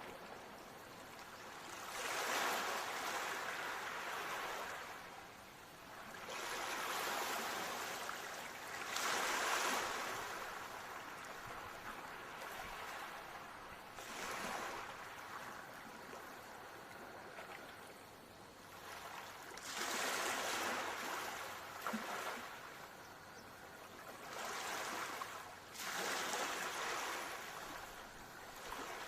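Ocean waves breaking and washing up the shore, each surge a rushing hiss that swells and dies away every few seconds.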